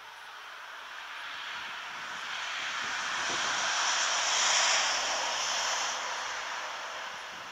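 A vehicle passing by: a steady rushing noise that swells to a peak about four and a half seconds in, then fades away.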